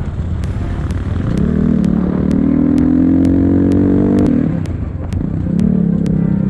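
Enduro motorcycle engine pulling under throttle, its pitch rising for about three seconds, dropping off about four seconds in, then picking up again. Sharp ticks come through it about twice a second.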